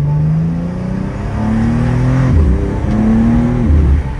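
BMW M2's turbocharged straight-six accelerating hard through the gears: the revs climb steadily, then drop sharply at two upshifts, about two and a half and three and three-quarter seconds in.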